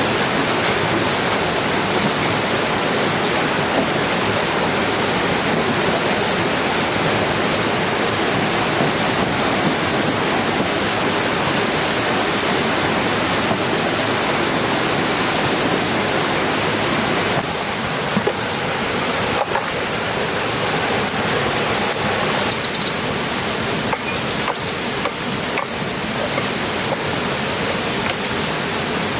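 Heavy rain falling steadily, a dense even hiss; it drops slightly in level and changes character abruptly about 17 seconds in, and again about 22 seconds in.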